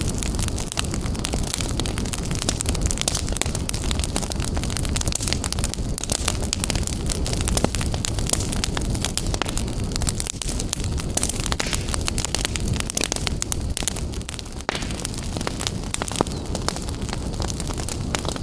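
Fire burning in a fireplace, crackling and popping continually over a low, steady rumble of flames.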